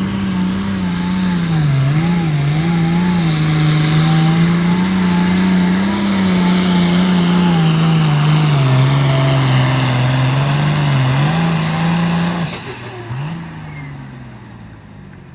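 A competition puller's engine running hard under load during a pull, its pitch wavering and dipping as it labours down the track. About twelve seconds in the engine backs off and the sound drops away, with one short rev, as the run ends.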